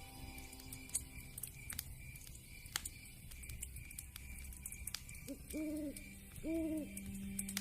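Wood fire crackling with scattered sharp pops, over a soft steady background drone. About five seconds in come a short call and then two rounded hoots, like an owl's.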